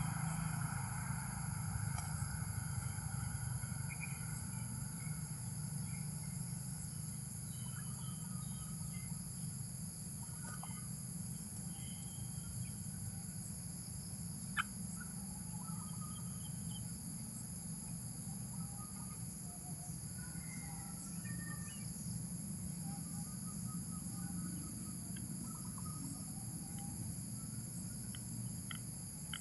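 Wild ambience: a steady, high-pitched insect chorus with scattered short bird calls over a low, steady rumble. A single sharp click comes about halfway through.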